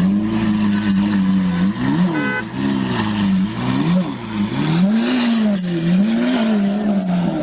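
Lamborghini engine being revved repeatedly through its exhaust, the pitch rising and falling several times.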